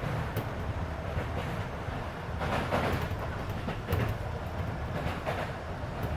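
Running noise inside a Keisei 3400-series electric train car at speed: a steady rumble of wheels on track with scattered clicks, swelling louder about two and a half seconds in. Air-conditioning noise runs beneath it.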